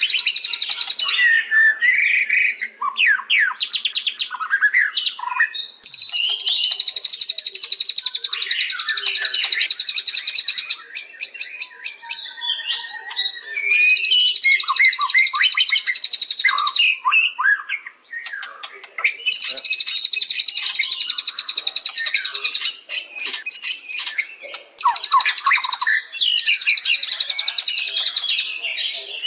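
White-rumped shama (murai batu) singing: varied whistled notes and slurs, broken by long, rapid, high-pitched trills of several seconds each.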